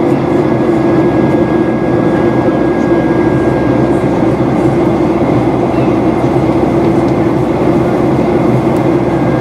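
Steady roar of engine and airflow noise inside the cabin of a Boeing 737-800 in flight, its CFM56-7B turbofans running at constant power. A faint high whine rides on top and fades about four and a half seconds in.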